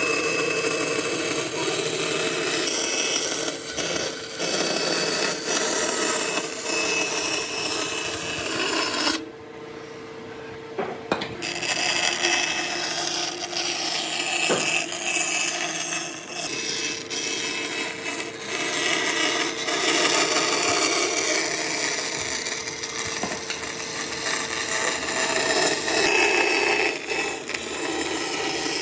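Power tool working wood, a steady motor tone under dense cutting and rubbing noise. The noise drops away for about two seconds roughly a third of the way in, then resumes.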